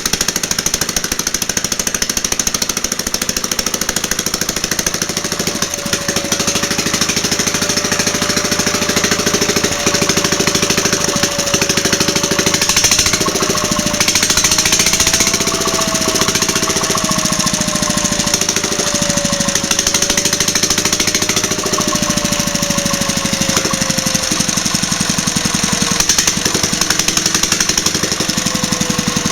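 Bernard T2 engine running steadily with a fast, even knocking rhythm. A faint whine that wavers and slowly falls in pitch is heard over it.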